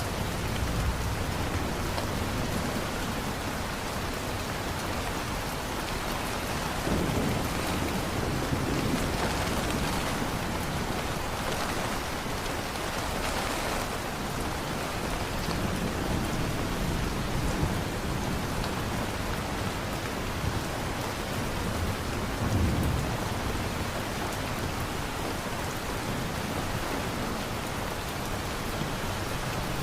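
Steady heavy rain falling, with low rolls of distant thunder rumbling a few times, the strongest about 22 seconds in.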